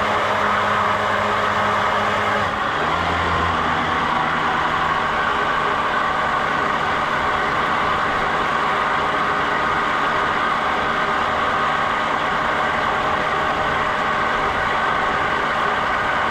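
Engine running steadily; about two and a half seconds in its pitch drops and then holds.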